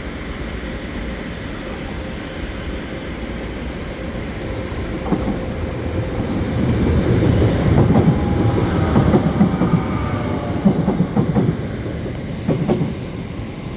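Passenger train moving through the station: a rumble that swells from about five seconds in and is loudest in the middle, with wheels knocking over rail joints several times and a faint whine.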